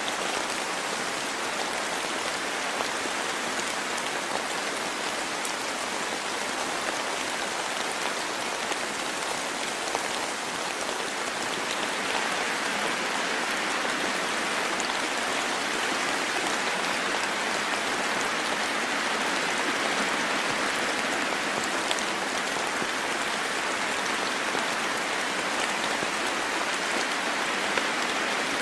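Steady rain falling in a forest, a constant hiss of many drops with faint individual drips.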